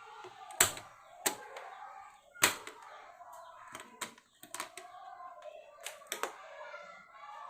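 Irregular sharp clicks and knocks, about eight in all, the loudest near the start and about two and a half seconds in: hard parts or tools being handled during electric fan repair work.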